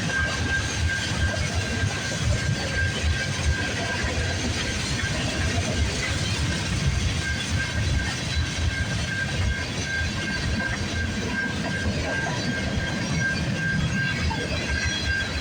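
Freight cars of a passing CN freight train rolling by: a steady rumble of steel wheels on rail, with a thin, steady high tone running through most of it.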